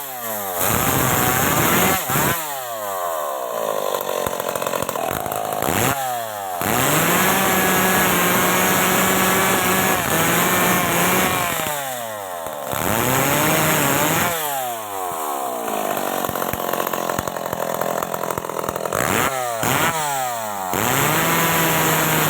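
Stihl MS 381 two-stroke chainsaw cutting wood. The engine is revved up and down several times, with long steady stretches at full throttle while the chain is in the cut.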